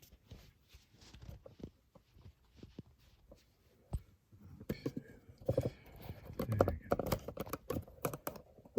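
Irregular clicks and knocks of things being handled close to the microphone. They are sparse and faint at first, with one sharp click about halfway, then come denser and louder with some dull thumps.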